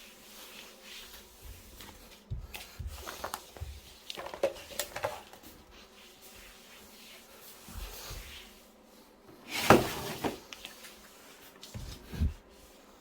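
Scattered light knocks and rustling, like objects being handled, with the loudest knock about ten seconds in.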